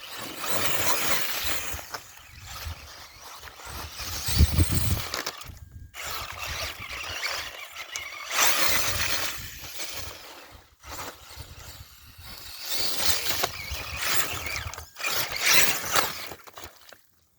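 Brushless-powered Axial Wraith RC mud truck driving through mud and water in repeated bursts of throttle, its tires spinning and splashing, with a heavy thump about four seconds in.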